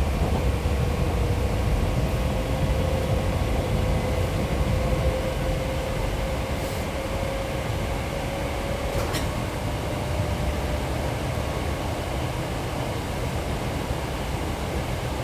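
A Hankyu 6300 series train running, heard from inside the car: a steady low rumble of wheels on track. A faint whine rises slowly in pitch and cuts off about nine seconds in, at the same moment as a short click.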